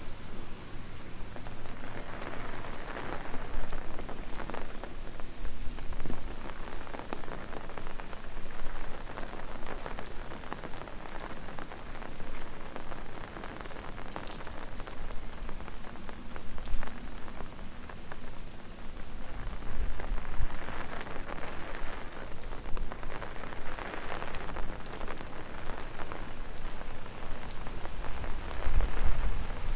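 Heavy rain pattering on an umbrella overhead, a dense, constant spatter of drops that swells louder now and then.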